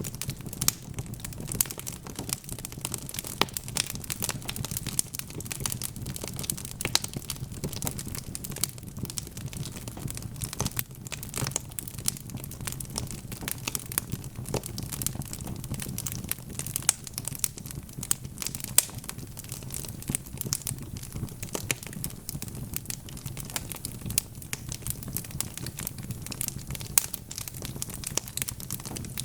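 Wood fire crackling: a steady stream of irregular sharp pops and snaps over a low, steady rumble of the flames.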